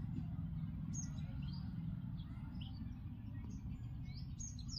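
Small birds chirping: many short high calls scattered throughout, over a steady low rumble.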